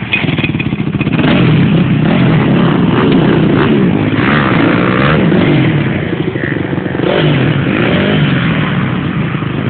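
Dirt bike engine running and revving, its pitch rising and falling repeatedly.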